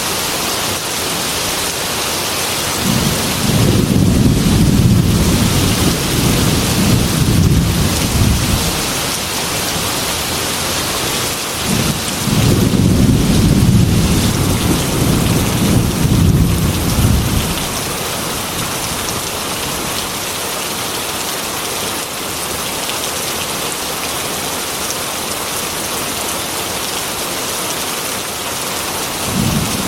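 Heavy rain falling as a steady hiss, with two long low thunder rumbles, each lasting about five or six seconds, a few seconds in and again about halfway; another rumble starts right at the end.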